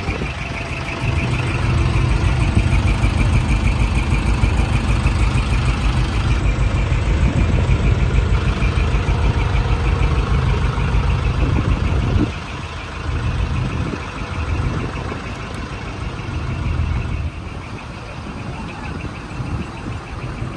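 V8 diesel engine of a Hino Dolphin truck running through twin mufflers with a deep, fast-pulsing exhaust rumble. It is loud for about the first twelve seconds, then settles noticeably quieter.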